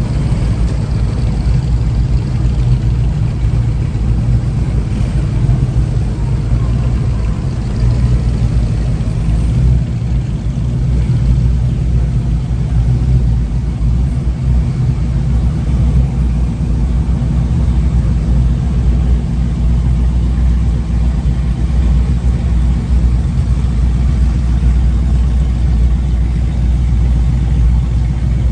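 A vehicle engine idling steadily with a low, even running sound.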